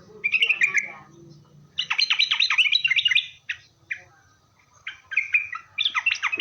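Yellow-vented bulbul singing: short bubbly phrases and two long runs of rapid, chattering down-slurred notes, one about two seconds in and another near the end.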